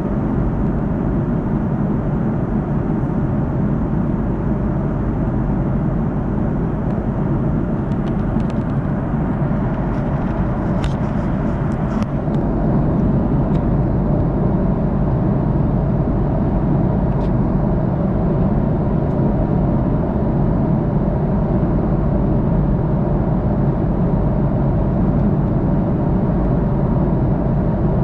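Steady cabin noise of an Airbus A330-300 airliner under way: a constant rush of engine and airflow noise heard from a window seat. A few faint clicks come about 8 to 13 seconds in, and the noise gets slightly louder about 12 seconds in.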